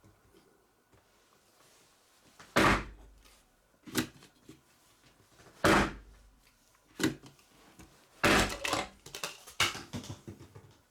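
Hammer blows knocking the stuck gas cylinder out of an office chair's base: about half a dozen heavy, irregular knocks with lighter taps between.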